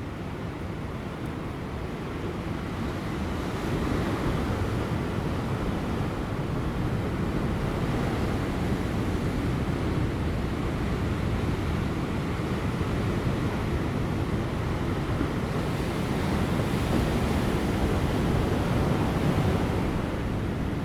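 Ocean waves breaking on rocks: a steady rushing surge that swells about four seconds in and again near the end, with light wind on the microphone.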